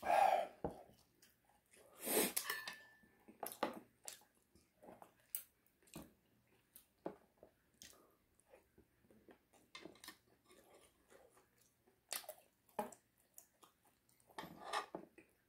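A person chewing and biting into chicken close to the microphone: irregular crunches and wet mouth clicks, with louder bites near the start, about two seconds in, and near the end.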